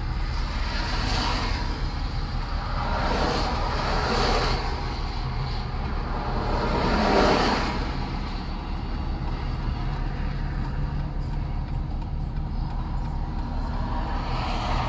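Road traffic: vehicles passing by, their rushing noise swelling and fading several times over a steady low rumble, loudest about seven seconds in.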